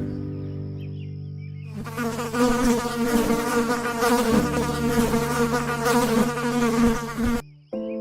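A flying insect buzzing, starting about two seconds in and stopping suddenly near the end, over steady held background tones.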